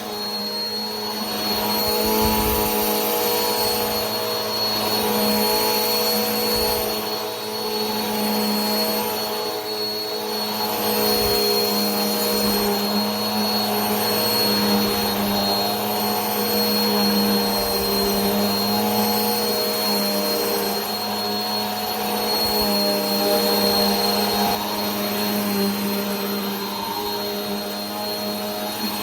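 Vacuum cleaner running steadily: a continuous rush of air with a steady motor hum and a thin high whine above it.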